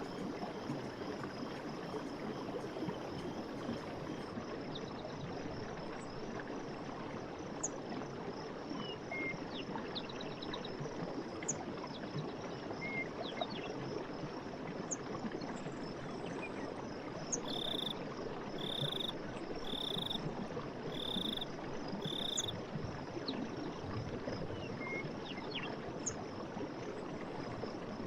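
Night-time forest ambience: a steady high insect trill over a constant hiss, with scattered short chirps. Around the middle comes a run of five short calls, evenly spaced about a second apart.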